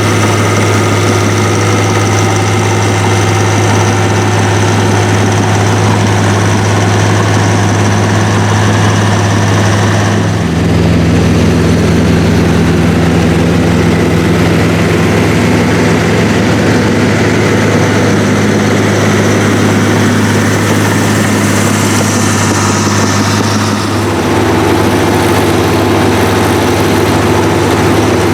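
Heavy diesel engines of a crawler tractor and a big wheeled tractor working hard in deep plowing, running loud and steady. The engine note shifts about ten seconds in and again near the end.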